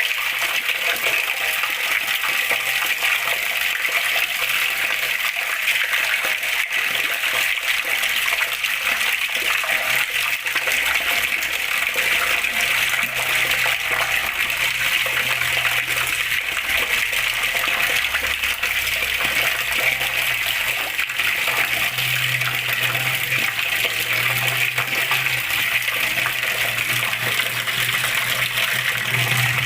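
Flowing water running steadily, an even splashing rush with no pauses.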